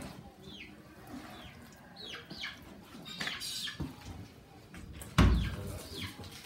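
Birds chirping, a string of short calls that each fall quickly in pitch. About five seconds in, one loud, dull thump.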